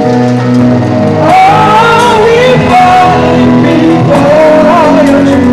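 Live church choir singing a gospel song with band accompaniment: a gliding melody line over held bass notes.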